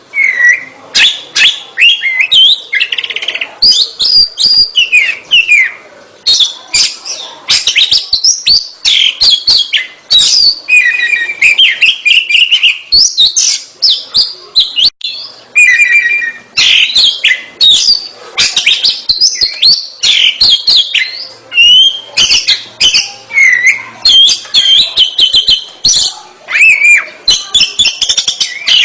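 Oriental magpie-robin (kacer) singing hard and without pause: a loud, varied run of sliding whistles mixed with rapid, sharp clicking and chattering notes.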